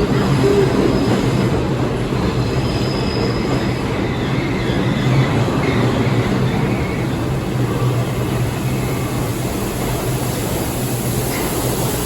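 New York City subway train of the Lexington Avenue line running in the station: a steady rumble of wheels on rail with a low hum, and faint high wheel squeals in the first few seconds.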